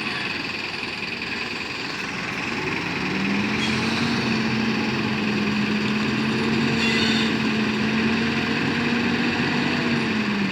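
Truck engine running steadily; its pitch rises about three seconds in, holds there, and drops back near the end.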